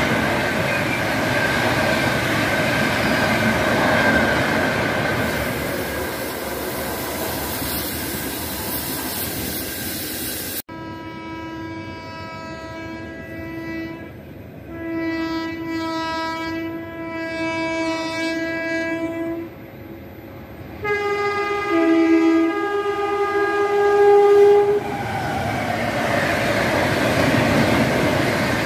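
An express train passing at speed makes a steady rush of wheels and coaches, cut off abruptly about ten seconds in. A locomotive horn then sounds three long blasts, the third one higher in pitch. Near the end another train's coaches come rushing past.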